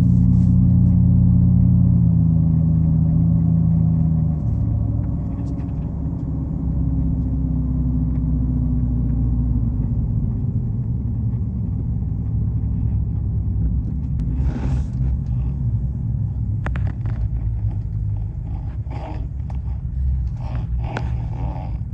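Pickup truck driving: a steady engine hum whose tones fade about four seconds in, leaving a low road rumble. Scattered light knocks and rattles come through in the second half.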